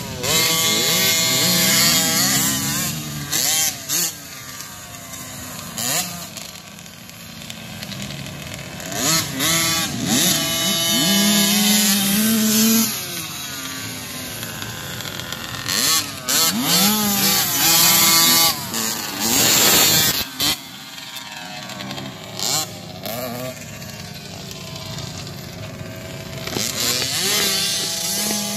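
Motocross dirt bike engines revving, the pitch climbing and dropping over and over as the bikes ride, getting louder and then fading again.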